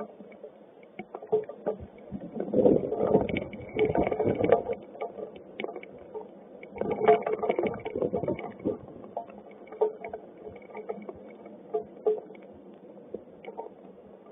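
Hailstones and rain striking the camera housing and nearby surfaces as many sharp clicks and knocks. The hail thickens into dense, louder clatters twice, about two seconds in and again around seven seconds, then thins out to scattered hits.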